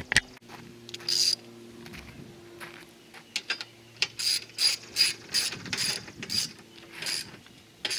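Ratchet wrench clicking as it snugs down the nuts of a strut tower brace: a short burst of clicks about a second in, then a run of about three clicks a second through the second half.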